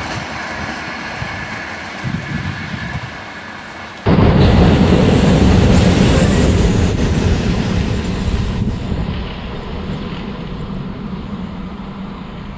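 A train approaching on electrified track, a steady running sound with a faint high ringing. About four seconds in, a sudden cut brings an electric multiple-unit passenger train passing close by with a loud rumble that slowly fades as it goes away.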